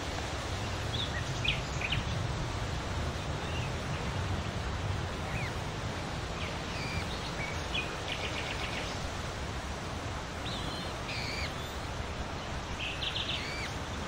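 Short high bird chirps scattered throughout, with a couple of quick rattling trills about eight seconds in and near the end, over a steady outdoor noise hiss.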